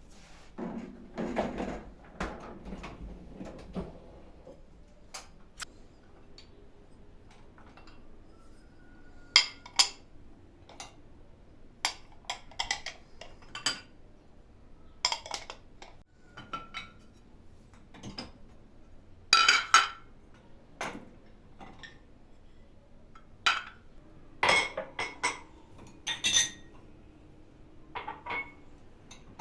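Dishes and cutlery being handled: a run of separate clinks and clatters, a few of them ringing briefly.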